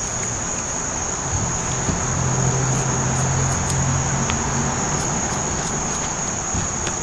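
Crickets trilling steadily on one high pitch, with a low hum rising and fading in the middle.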